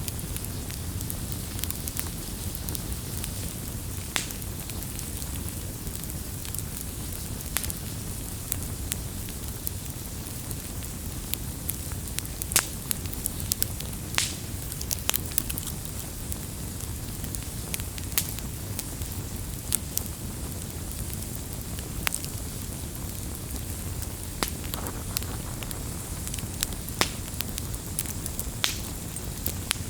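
Wood campfire burning with a steady low rumble and hiss, and frequent sharp, irregular crackles and pops.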